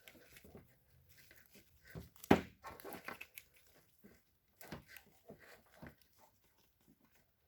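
Hands handling an engine wiring harness and electrical tape: scattered crinkles, rustles and small clicks, with one sharp snap a little over two seconds in.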